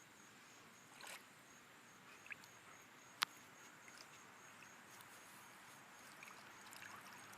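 Near silence: a faint steady hiss with a few small ticks and one short, sharp click about three seconds in.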